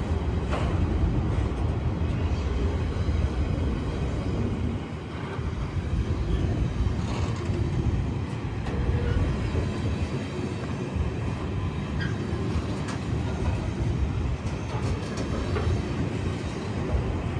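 A train running, a steady low rumble with no horn.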